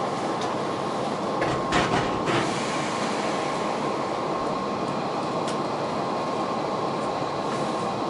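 Hankyu electric train pulling slowly away from the platform, heard from inside the front car: steady running noise with a thin, steady high tone. A few short clunks come about two seconds in, and another near the middle.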